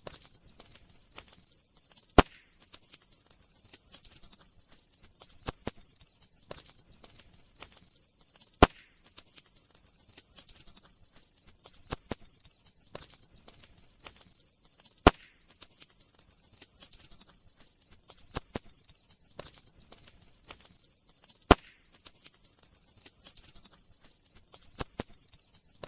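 Wood fire crackling: scattered small crackles with a loud pop about every six and a half seconds, over a faint steady hiss.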